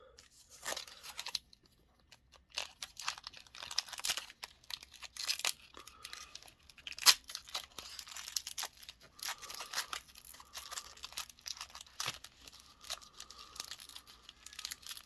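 Foil wrapper of a Pokémon booster pack crinkling and being torn at by hand, a run of irregular sharp crackles with one louder snap about halfway through.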